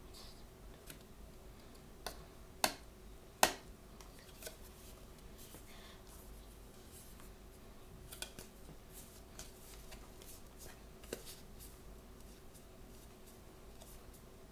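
Hands opening blind-bag and box packaging: a handful of sharp clicks and snaps, the loudest about three and a half seconds in, with lighter rustles and ticks later on.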